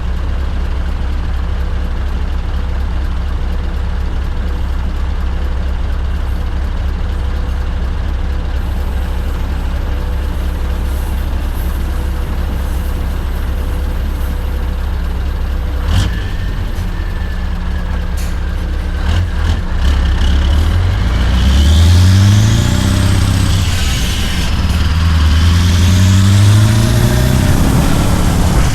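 Scania R580 V8 truck engine with a straight-piped 8-inch exhaust, holding a steady low drone. About two-thirds through there is a sharp click, then the engine note climbs, drops and climbs again under acceleration, with a high whistle rising and falling along with it.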